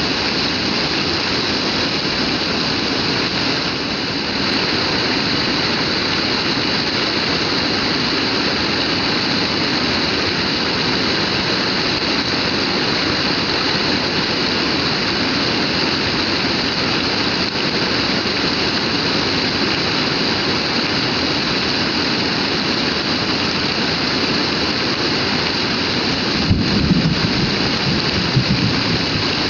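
Heavy rain pouring down in a steady, dense hiss. A brief low rumble with a few louder knocks comes near the end.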